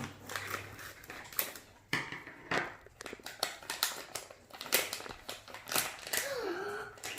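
Plastic toy packaging being handled and cut open: irregular crinkles, crackles and snips.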